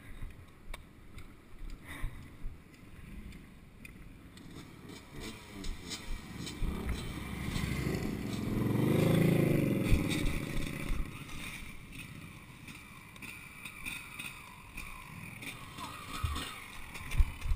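A motor vehicle's engine grows louder and then fades, loudest about nine seconds in, its pitch rising and then falling as it passes. Scattered knocks and scrapes can be heard around it.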